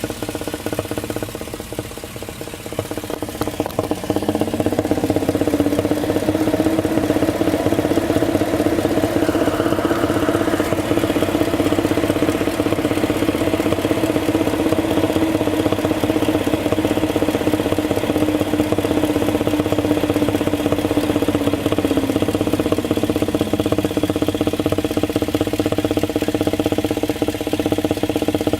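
2006 GM LM7 Vortec 5.3-litre V8 idling, revved up about four seconds in and held at higher speed, then dropping back to idle near the end. A thumping from the intake that stays steady even when the engine is revved.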